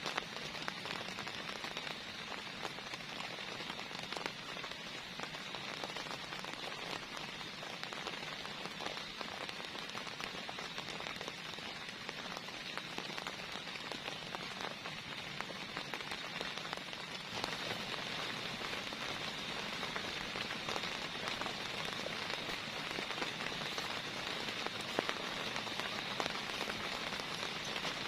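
Heavy rain falling steadily, with countless drops pattering on a surface. It gets a little heavier about two-thirds of the way through.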